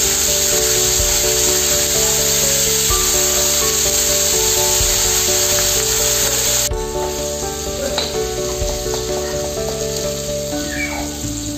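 Curry leaves sizzling in hot mustard oil in a steel kadai as a ladle stirs them, under background music with a simple melody. The sizzling drops away abruptly about two-thirds of the way through, leaving the music.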